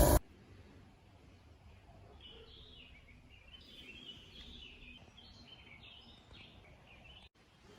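A loud steady machine noise cuts off right at the start. Then faint birds chirp repeatedly over low background noise.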